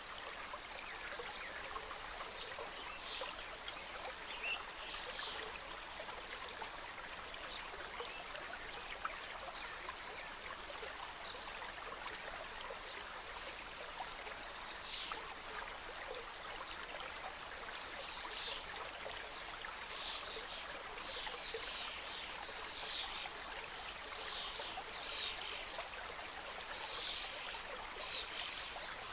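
Mountain stream cascading over rocks: a steady rush of flowing water, with short higher splashes and trickles coming more often in the second half.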